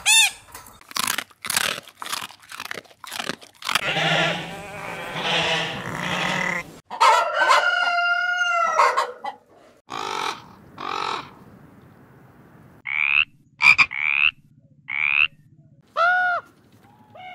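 A string of different animal calls one after another: quick repeated calls at first, a longer harsh call, then short high-pitched calls near the end.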